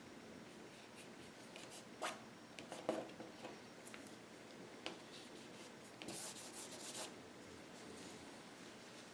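Paintbrush strokes with acrylic paint: faint scratchy rubbing and dabbing, with a denser scrubbing stretch about six seconds in.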